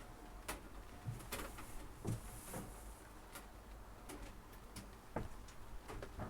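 Scattered light clicks and knocks with a few soft thumps, irregularly spaced: fishing nets and their gear being handled in a boat.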